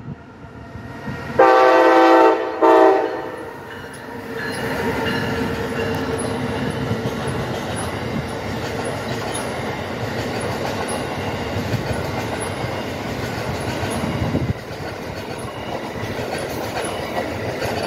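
Amtrak train, an ACS-64 electric locomotive hauling Amfleet coaches, sounds its chime horn in two blasts, a long one and then a short one, about a second and a half in. It then passes close by with a steady rushing noise of wheels on the rails.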